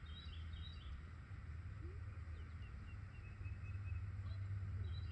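Wild birds chirping and calling in short notes, over a steady low rumble of outdoor background noise.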